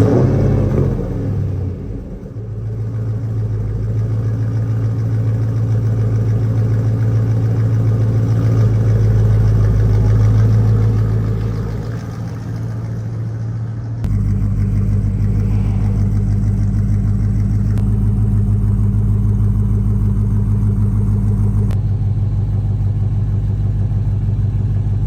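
Pickup truck engine running just after being started: a loud surge at first, then settling into a steady run. The tone and level shift abruptly about fourteen seconds in.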